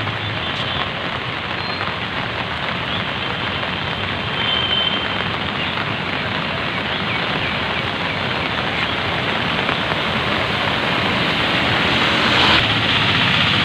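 Steady, loud rush of water from the heavy monsoon downpour and flooding, swelling briefly near the end.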